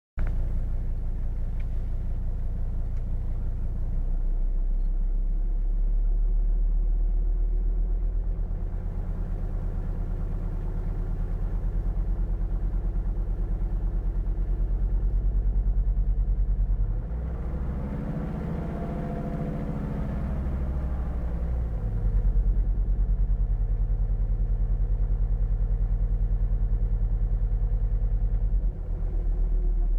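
Volvo D5 diesel engine running at operating temperature with a knock. It idles, and in the middle it is revved once, the pitch rising and falling back to idle.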